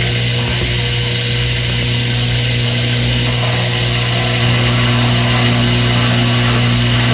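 Electric motor running with a steady, loud low hum, mimicking the sound of a front-load washing machine.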